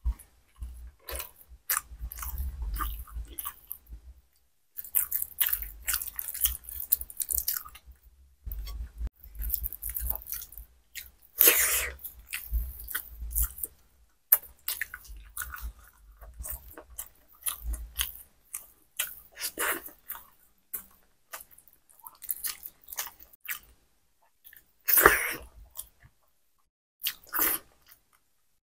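Close-miked chewing and wet mouth smacking of someone eating khichuri by hand, in irregular bursts, with a couple of louder smacks.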